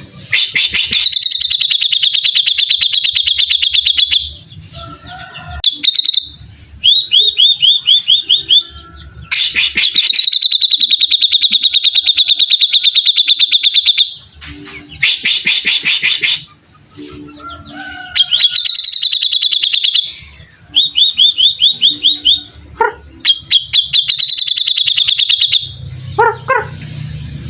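Grey-cheeked bulbul (cucak jenggot) singing continuously: long, very rapid high trills held at a steady pitch for several seconds each, alternating with short runs of quick rising notes.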